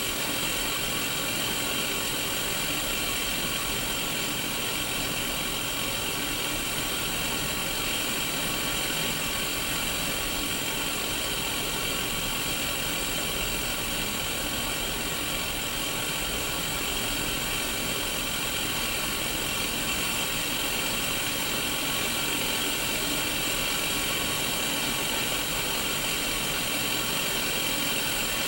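White-noise static hiss from a Sony Mega Watchman black-and-white mini CRT television receiving no signal: a steady, even hiss with no breaks.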